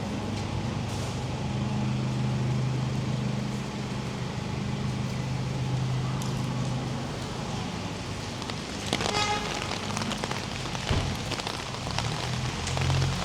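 Steady rain hiss with a low engine hum underneath, and a brief rasping, squeak-like sound about nine seconds in.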